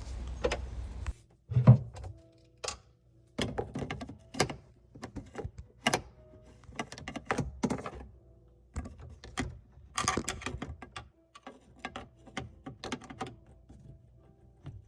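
A series of irregular knocks and clunks, a few each second, with faint steady tones in between.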